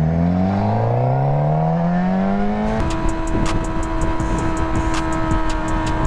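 A sport motorcycle engine accelerating hard, its pitch climbing steadily for about three seconds. It then cuts off abruptly into music with a held note and a steady clicking beat.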